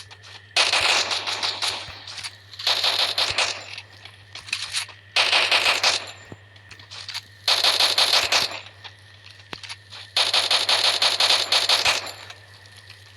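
Five bursts of rapid automatic gunfire, each lasting one to two seconds with short pauses between, over a steady low hum.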